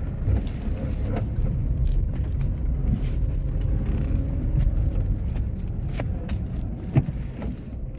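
Cabin noise of a Tata Tiago hatchback driving over a potholed road: a steady low rumble with scattered knocks and rattles from the body, the sharpest about seven seconds in. The owner blames the rattling on doors slammed hard, which loosened nuts and bolts at the joints.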